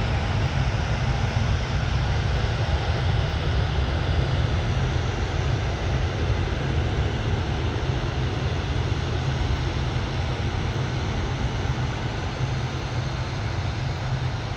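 Jet airliner engines running, a steady broad roar with a heavy low rumble that eases slightly near the end.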